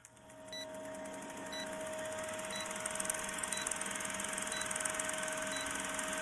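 A short, high electronic beep repeating about once a second over a steady hum and a hiss that grows louder over the first few seconds.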